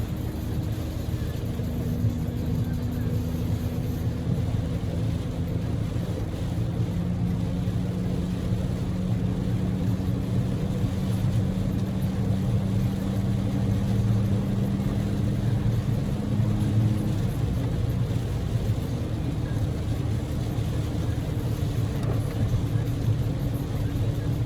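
Cabin noise of a Daihatsu Move L150S on the highway in heavy typhoon rain: steady rumble of tyres on the wet road and rain, under the drone of its 660 cc three-cylinder EF-VE engine. The engine note changes about two-thirds of the way through.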